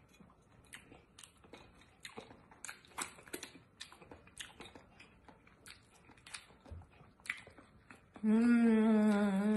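A mouthful of hard-boiled egg being chewed, with many faint clicks and small crackles. About eight seconds in, a long, loud closed-mouth 'mmm' hum of enjoyment starts over the chewing.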